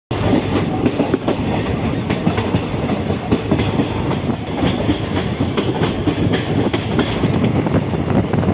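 Passenger train running, its wheels clattering with many short clicks over a steady rumble.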